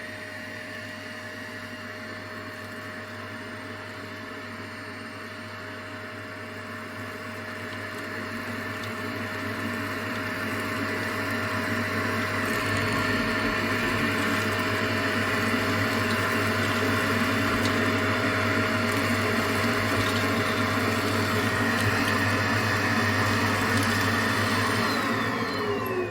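Parkside ash vacuum cleaner running with a steady motor whine, getting louder over several seconds about a third of the way in, then winding down in pitch near the end.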